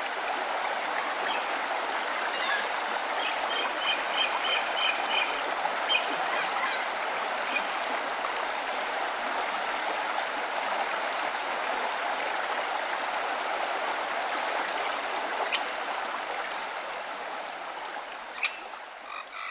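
Steady rush of a flowing stream. A bird calls a quick series of about seven short, even notes a few seconds in. The whole sound fades away near the end.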